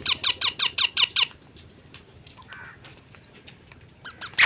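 Ring-necked parakeet giving a rapid run of short, harsh squawks, about six a second, for just over a second; a second run begins near the end.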